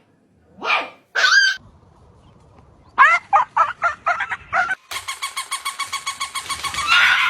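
A dog yelping twice, then a quick run of about eight high yips. From about five seconds in comes a fast, even pulsing sound, about six pulses a second.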